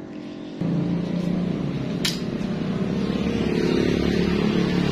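Angle grinder switched on about half a second in and running steadily at a constant pitch, ready to cut open a worn wheel bearing. A sharp click comes about two seconds in.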